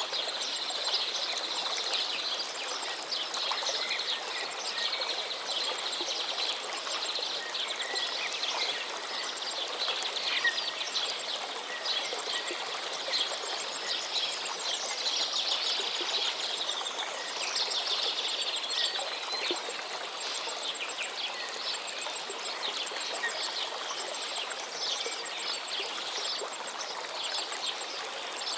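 Outdoor nature ambience: a dense chorus of small birds chirping over a steady hiss like running water.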